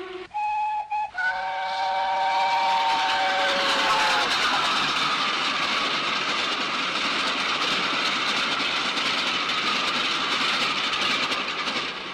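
Steam locomotive whistle blowing a long blast of several notes sounding together for about three seconds, then the steady rushing noise of a steam train running, fading away near the end.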